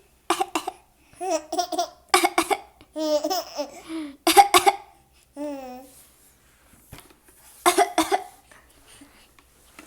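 A baby laughing and making raspy vocal 'devil noises' in short bursts, several in quick succession, then a pause and one more burst about eight seconds in.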